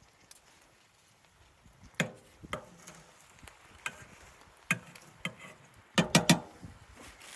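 A series of sharp knocks at uneven intervals, ending in a quick run of three, the loudest, about six seconds in.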